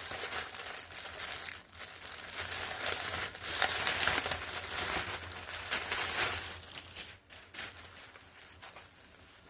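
Clothing packaging crinkling and rustling as a garment is unwrapped by hand, in dense, irregular handling noises that thin out near the end.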